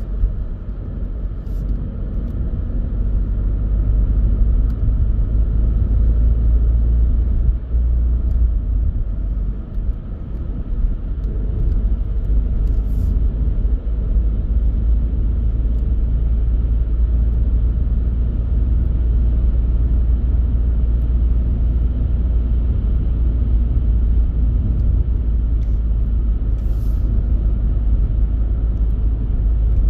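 Car driving on a country road: a steady low rumble of engine and tyres, with a few faint ticks now and then.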